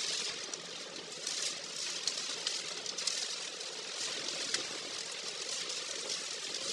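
Steady hiss of a car driving on a wet road in stormy weather, with a few sharp ticks scattered through it.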